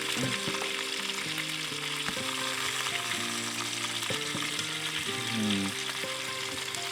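Cornish game hen sizzling in a cast iron skillet over a campfire: a steady, even frying hiss.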